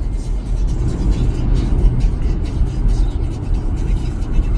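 Steady road and tyre rumble heard inside the cabin of a Tesla electric car cruising on the interstate, with no engine note.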